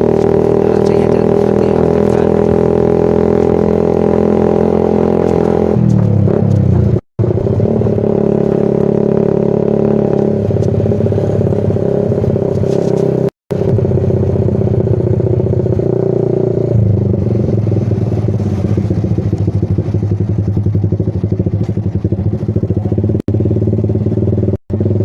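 Yamaha Vixion's single-cylinder four-stroke engine running through a Kou Mahachai aftermarket racing exhaust, a steady note whose pitch shifts about six seconds in and again a few times later. The sound drops out for a moment twice.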